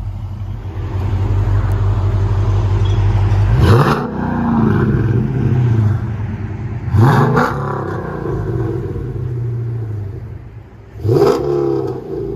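Dodge Challenger Scat Pack's 6.4-litre HEMI V8 through long tube headers, high-flow cats and Flowmaster Super 10 mufflers, idling with a deep rumble and then blipped three times. Each rev rises quickly and falls back to idle, about three to four seconds apart, with the last one loudest.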